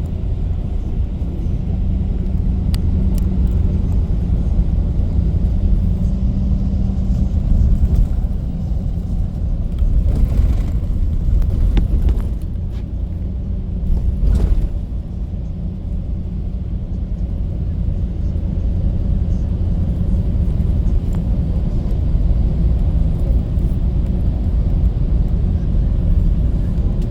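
Steady low engine and road rumble of a moving bus, heard from inside, with a couple of brief louder noises partway through.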